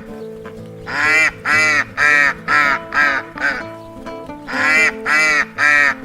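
Waterfowl calling in quick runs of loud, nasal calls, several a second, with a pause of about a second between runs. Steady background music plays underneath.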